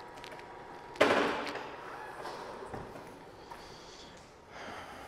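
BMW R18 B's big boxer-twin engine blipped once about a second in, a sudden sharp burst of exhaust that fades over about a second, then settling low.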